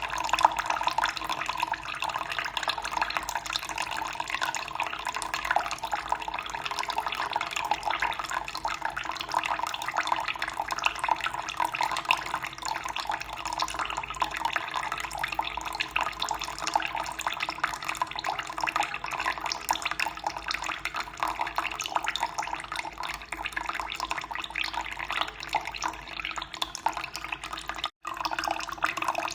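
Running water flowing steadily with a constant splashing rush, broken by a momentary dropout near the end.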